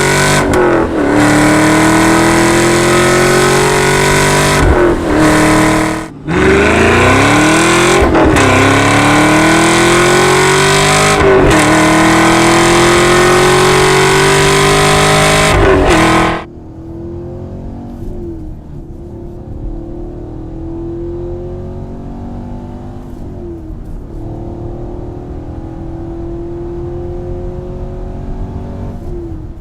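Chevrolet Camaro SS's 6.2-litre V8 through a Borla exhaust, accelerating hard: the pitch climbs and then dips sharply at each of several upshifts. About halfway through the sound turns much quieter and duller while the car keeps pulling through the gears.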